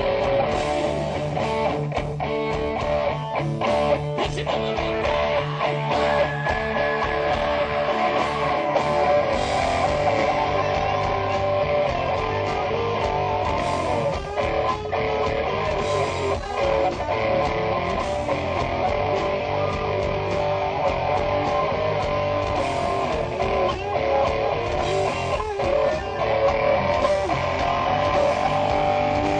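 Live hard rock band playing an instrumental passage without vocals, with electric guitars and bass to the fore.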